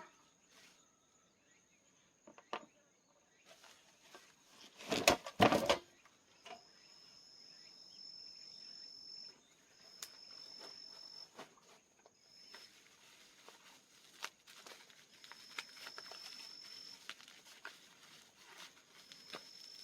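Night insects trilling: a steady high thin tone with repeated high trills of a second or more each, over scattered small clicks. A short, loud clatter about five seconds in.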